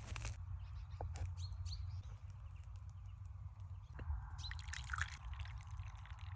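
A few faint bird chirps over a steady low rumble, with some light clicks.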